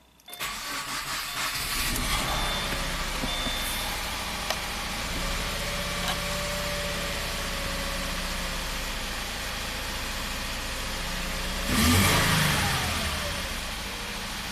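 2014 Subaru Forester's flat-four engine catching and then idling, with one cylinder's fuel injector unplugged for an in-cylinder pressure test, so that cylinder is not firing. About twelve seconds in it briefly gets louder, as with a short rise in engine speed.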